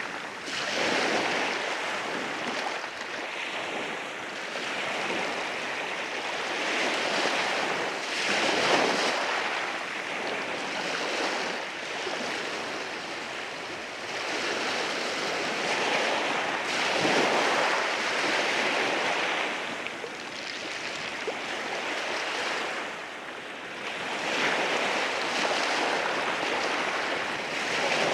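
Sea waves washing in over rocks, a continuous surging wash that swells and eases every few seconds.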